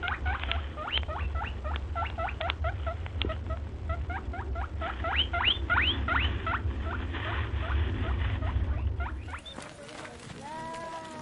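Small animal giving a fast series of short, rising, high-pitched squeaks, several a second, over a low hum. About nine seconds in, the sound cuts off, and near the end a different animal begins a pitched bleat-like call.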